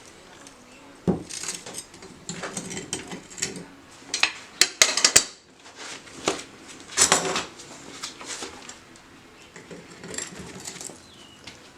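Hard metal objects clinking and knocking together as they are handled: a run of irregular knocks and clatters, loudest in a quick cluster about four to five seconds in and again about seven seconds in.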